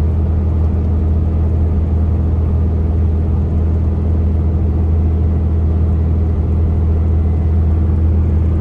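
Pickup truck cruising, heard from inside the cab: a steady low engine and road drone that holds constant without revving.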